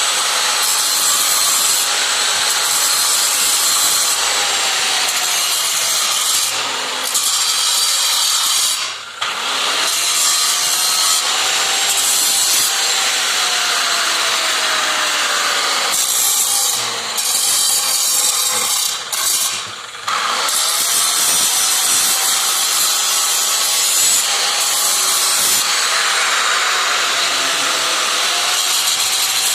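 Angle grinder grinding slag off a root-pass weld to clean the joint down to bright metal before the fill pass. The motor pitch sags as the disc is pressed in and climbs again when eased off, and the grinding drops away briefly twice.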